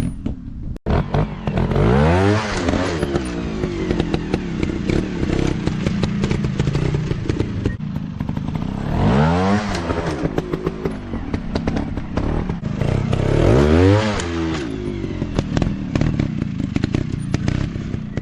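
Dirt bike engines revving, the pitch climbing and falling back in three hard surges, about two, nine and fourteen seconds in, with a steady clattering rattle between them.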